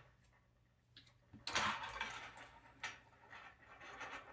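Small hard parts clicking and rattling as they are handled, starting about a second and a half in, with a sharp click near three seconds.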